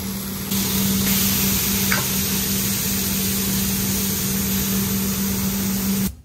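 Beef burger patties sizzling on a hot flat-top griddle, a steady frying hiss over a constant low hum. The sizzle gets louder about half a second in and cuts off abruptly near the end.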